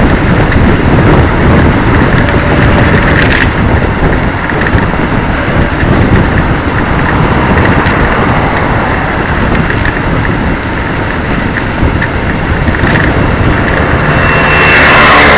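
Wind rushing over the microphone while riding, mixed with the small 150cc engine of a leaning trike motorcycle running nearby. The noise swells briefly louder and brighter near the end.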